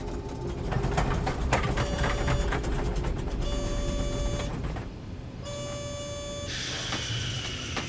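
Airliner landing roll on a runway: a steady low rumble with rattling clicks, and a cockpit warning tone beeping three times, each beep about a second long.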